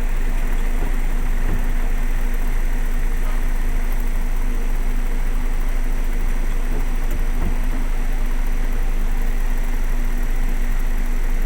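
Heavy rain falling hard, a steady even hiss, with a vehicle engine idling as a steady low hum underneath.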